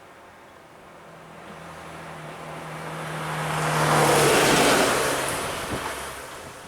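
A motor vehicle driving past, growing louder to a peak about four seconds in and then fading, its engine note dropping in pitch as it goes by.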